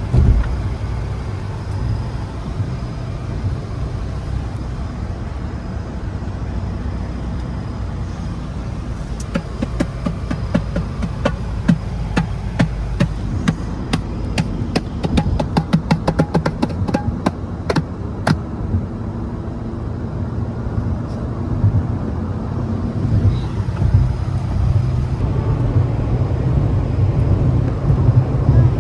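Steady low vehicle rumble, with a run of rapid sharp clicks about a third of the way in that stops about two-thirds of the way through.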